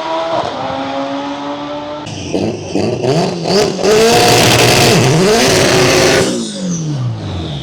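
Drag-racing car engine revving hard, loudest a little past the middle, with its pitch wavering up and down. Near the end the engine note falls steadily.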